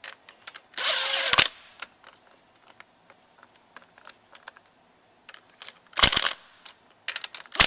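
Socket ratchet clicking in short runs while the connecting rod cap bolts are snugged down by hand, with scattered single clicks of metal tools in between.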